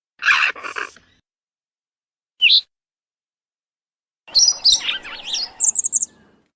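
Compsognathus ('compy') creature sound effects: a short two-part screech, then a single rising chirp, then a run of quick chirps ending in a rapid high trill.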